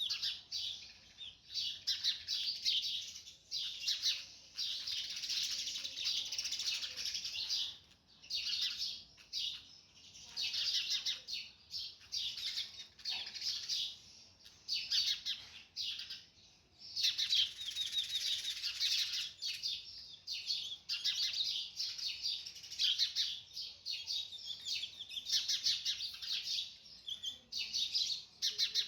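Small birds chirping and twittering in rapid, high-pitched bouts of a few seconds each, with short pauses between.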